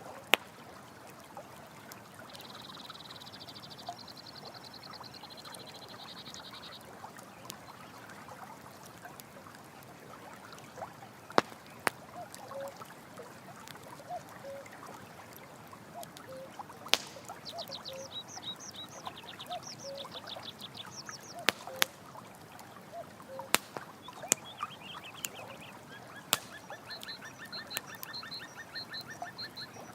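Steady running water with a campfire crackling and giving sharp occasional pops. Night animals call over it: bursts of rapid pulsed trills, and a short low call repeated about once a second through the middle.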